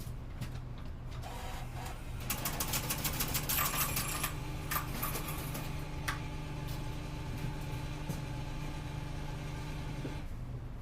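Gifu Bus city bus heard from inside the cabin: a steady low mechanical hum, with a rapid clattering of fast clicks for about two seconds, and a steady machine whine that joins in around two seconds in and cuts off near the end.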